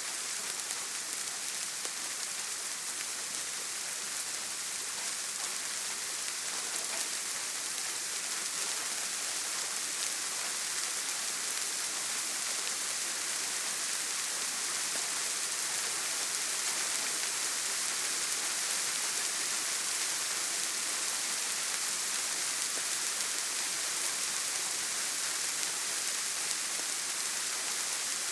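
Steady heavy rain on a tin roof: a dense, even hiss with faint scattered drop taps.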